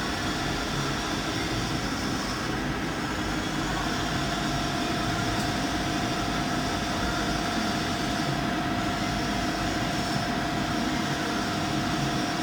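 CNC milling machine running steadily with a continuous mechanical hum from its fans and pumps; a thin steady whine joins about four seconds in and holds on.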